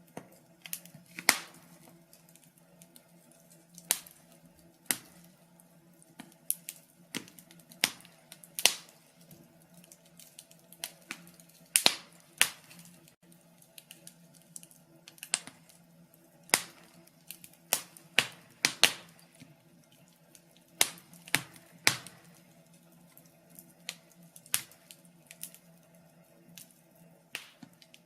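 Wood fire in a fireplace crackling, with irregular sharp pops and snaps about once or twice a second over a faint steady low hum.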